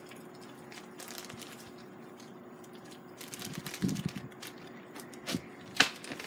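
Soft crackling and crinkling of finely cut shag pipe tobacco being handled and pulled apart by hand, with scattered small clicks and a sharper click near the end.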